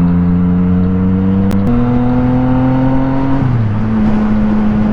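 Motorcycle engine pulling under way: its pitch climbs slowly, jumps up about a second and a half in, then drops as it shifts about three and a half seconds in and holds steady, over steady wind and road noise. Two faint clicks sound about a second and a half in.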